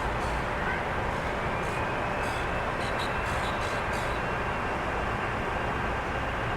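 Steady rushing rumble of a jet airliner's engines, with a faint high whine held through the second half.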